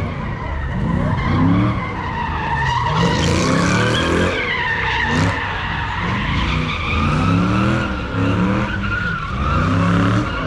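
Car spinning its tires in sideshow donuts: the engine is revved up and down over and over while the tires squeal continuously.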